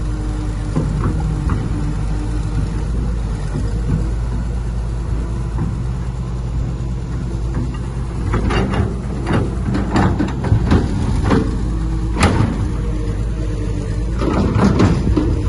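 Diesel engine of heavy construction machinery running steadily. From about halfway on, a string of sharp metallic clanks and knocks comes over it, louder near the end.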